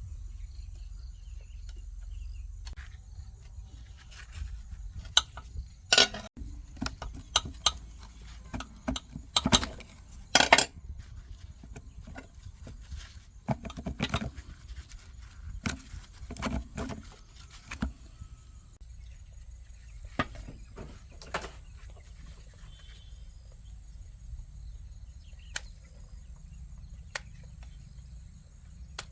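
Tools and parts being handled at a workbench: scattered sharp clicks and knocks, irregularly spaced and thickest in the first half, over a low steady hum.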